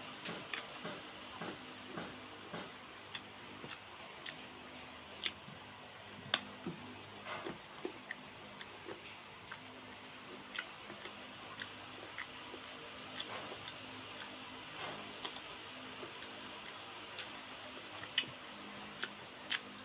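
Close-up eating sounds of a person biting and chewing mango slices: irregular wet smacks and mouth clicks, about one or two a second.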